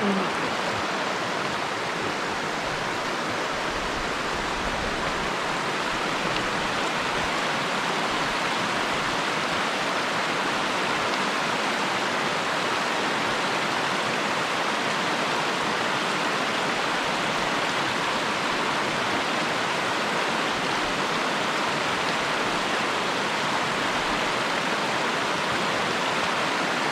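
A mountain stream rushing steadily, an even hiss of running water with no break.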